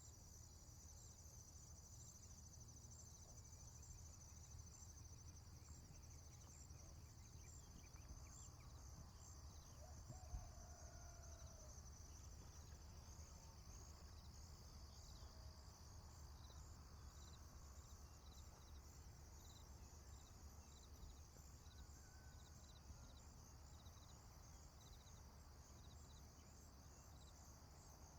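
Faint rural ambience: insects chirping in a steady, high, pulsing drone, over a low background rumble, with a few faint distant calls near the middle.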